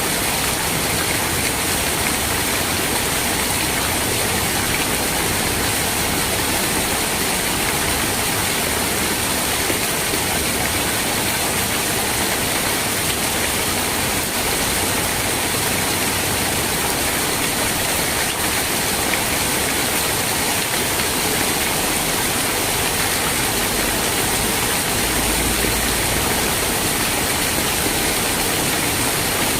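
Steady rain falling: an even, unbroken hiss of rainfall at a constant level.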